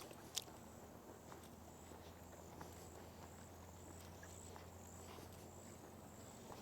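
Quiet outdoor ambience: faint, scattered footsteps of people walking a trail, under a steady high insect drone, with two sharp clicks just after the start.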